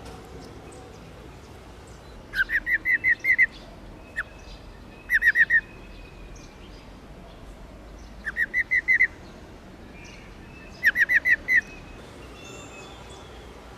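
Female black-throated laughingthrush giving its rolling 'ro ro' call: four short bursts of rapid repeated notes, about six or seven to a burst, spaced a few seconds apart.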